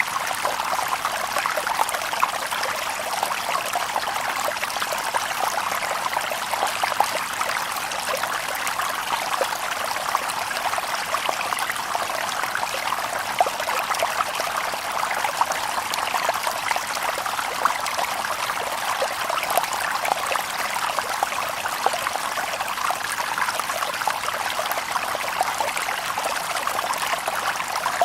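River water babbling over stones: a steady rush of running water with many small splashes and gurgles.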